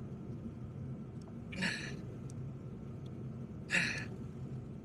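Two short, sharp breaths from a person straining at work, one about a second and a half in and the other near the end, over a steady low background hum.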